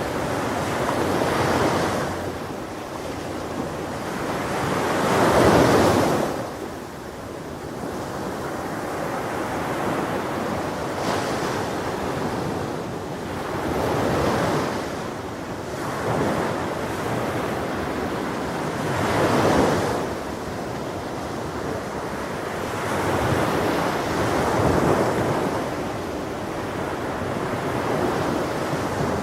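Ocean waves breaking on a shore, surging and fading about every five seconds over a steady wash of surf; the loudest break comes about five seconds in.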